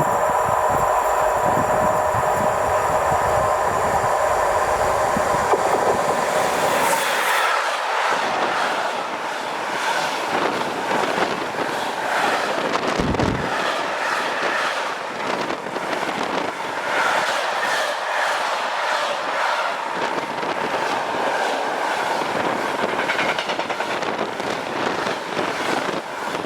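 A train passing on the line. For the first several seconds a steady whine sits over the running noise; then the rolling cars rush by, their wheels clacking over the rails in a rhythmic clatter.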